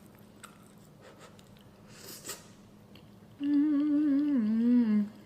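A woman hums a long closed-mouth 'mmm' of enjoyment while eating, its pitch wavering and then stepping down near the end. Before it there are only faint mouth clicks and a brief hiss.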